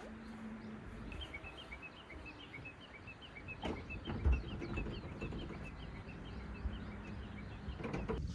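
A bird calling a rapid run of short, high chirps, about four or five a second, over a low background rumble, with a couple of sharp knocks near the middle.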